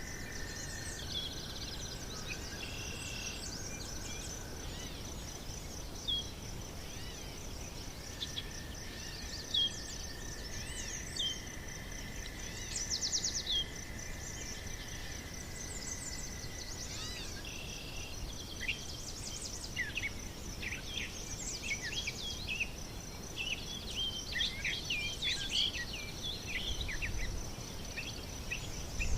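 Birds chirping and calling over a steady, high, pulsing insect trill, with a low background rumble. The birdsong becomes much busier about two-thirds of the way through.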